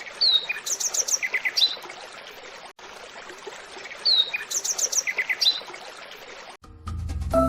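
Birds chirping and trilling over a steady hiss like running water; the same few-second stretch of birdsong plays twice. Music with a beat comes in near the end.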